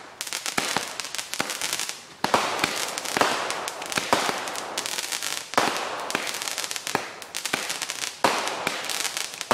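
Consumer fireworks going off in a steady run: a fresh burst about every two to three seconds, each trailing into dense crackling.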